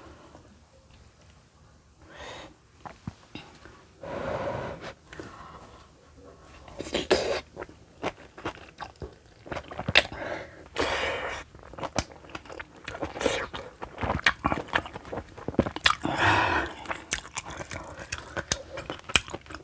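Close-miked wet chewing of spicy kimchi stew and rice, with many sharp mouth clicks and smacks. Several long, breathy puffs of air come between bites as the eater breathes out against the heat of the chilli.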